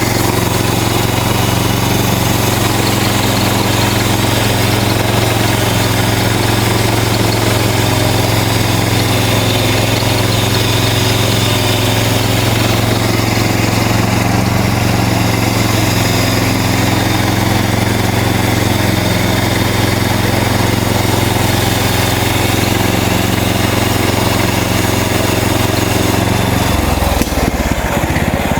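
Gasoline engine of a MechMaxx portable band sawmill running steadily at speed while the band blade saws through a cedar log. About 27 seconds in, the engine note drops and changes.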